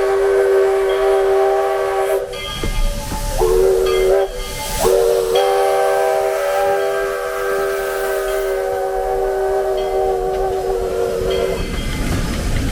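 Steam locomotive whistle blowing: a blast that stops about two seconds in, two short toots, then a long blast held for about six seconds that cuts off near the end, with a hiss of steam.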